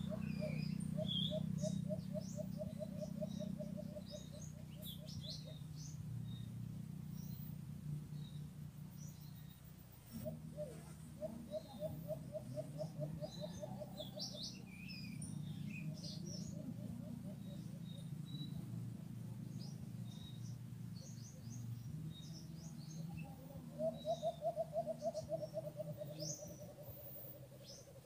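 Birds calling in forest: three times a rapid run of low, quickly repeated notes that trails off slightly in pitch, the last run near the end the loudest, with small birds chirping high and thin throughout. A steady low hum sits underneath.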